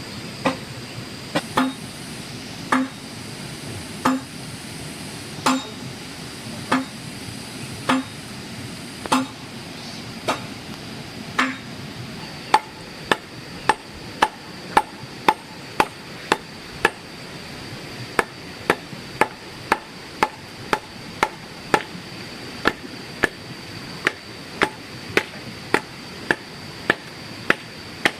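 Repeated blows of a hand tool striking, about one a second for the first half, then quicker at about two a second, with a steady high thin tone underneath.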